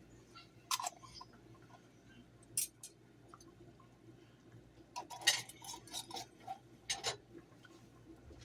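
Light clinks and knocks of metal kitchen utensils against a pot and glass canning jars while the soup is jarred. A single clink comes about a second in and another near three seconds, then a cluster of clatter between about five and seven seconds.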